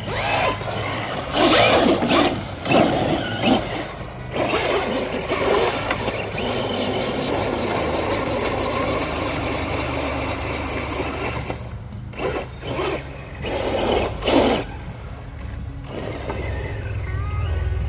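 Brushless RC short-course truck driven hard in bursts, its tires throwing dirt with each punch of throttle. In the middle a high motor whine holds and climbs slowly for a few seconds. Background music plays underneath throughout.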